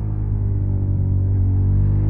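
Suzuki SV650's 90-degree V-twin engine through a Yoshimura Alpha carbon exhaust, running on steady throttle with a deep, even exhaust note that rises slightly in pitch near the end.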